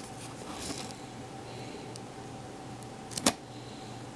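Faint handling noise over a steady electrical hum, with one sharp, loud click a little after three seconds in.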